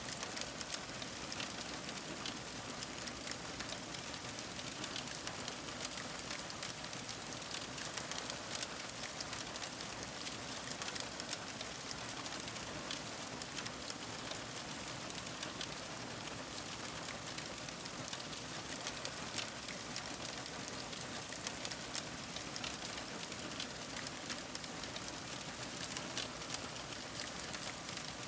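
Crackling fire: a steady hiss with many small, sharp pops and snaps scattered throughout.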